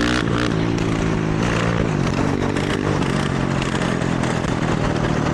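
Honda CRF450R dirt bike's single-cylinder four-stroke engine revving up twice as it accelerates, then running steadily, with wind noise over it.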